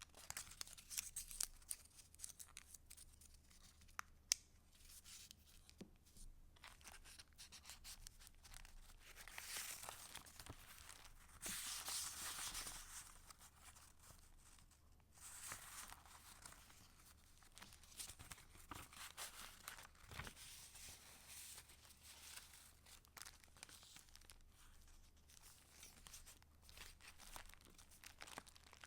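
Paper rustling and crinkling as the pages of a handmade junk journal are handled and turned. There is a single sharp click about four seconds in, and louder swells of rustling around the middle.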